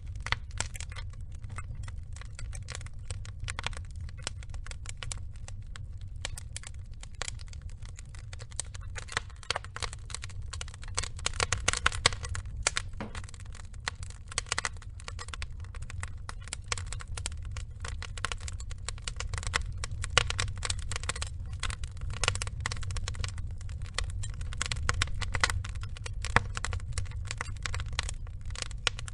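Log fire burning, with a steady low rumble under a constant irregular crackle of small pops and snaps. Louder pops cluster around the middle of the stretch.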